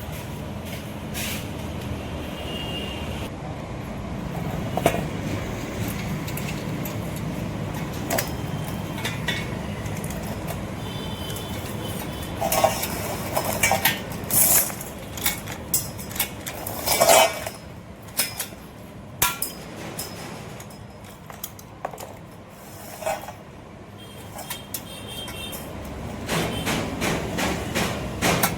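Irregular metal clanks and knocks, some ringing briefly, over a steady low hum. The strikes are loudest and most frequent about halfway through.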